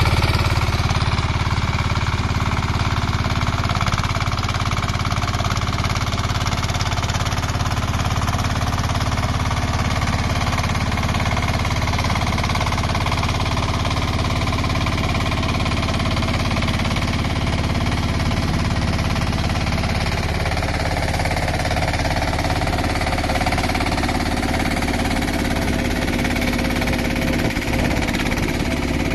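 Engine of a 32 hp small tracked tractor running steadily and loudly with a rough, knocking clatter while it digs a trench, its pitch shifting slightly about two-thirds of the way through.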